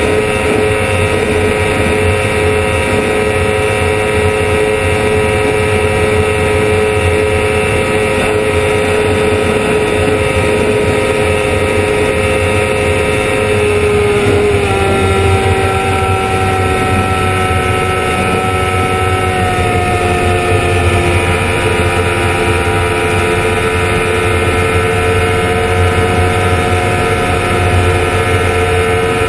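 Honda CBR1000RR's inline-four engine running near top speed in sixth gear at about 12,700 rpm, under heavy wind rush. About halfway through the note drops a little and then slowly falls as the bike slows, down to about 10,700 rpm.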